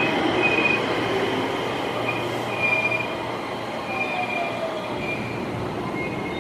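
Train running through the station with its wheels squealing in short, high, on-and-off squeals over the rumble of the cars.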